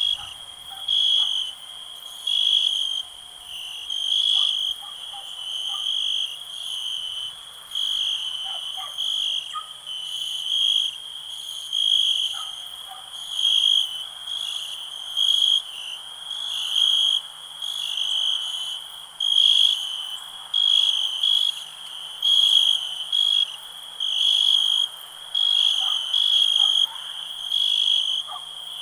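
Crickets chirping in pulses about once a second, over a steady higher-pitched insect trill, with faint scattered calls lower down.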